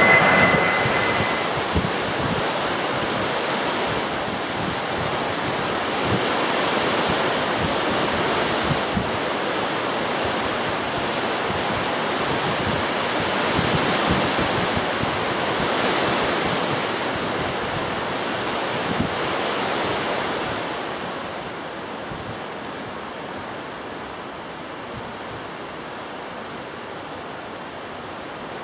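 Strong gusty wind buffeting the microphone: a steady rushing noise that eases about twenty seconds in.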